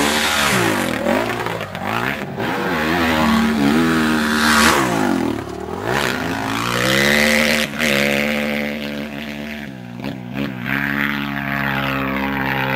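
Honda 450 motocross bike engine running hard, the revs dropping sharply and climbing back twice, about a second in and again near the middle, then holding fairly steady.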